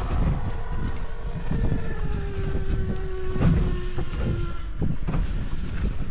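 Wind buffeting the microphone at sea, a constant low rumble with irregular gusty thumps. Under it a faint steady pitched tone sinks slowly in pitch and fades out about four and a half seconds in.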